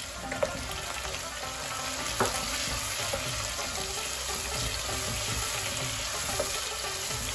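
Onions and freshly added garlic-ginger paste sizzling in hot oil in a pan while a wooden spoon stirs them, with a sharp knock about two seconds in.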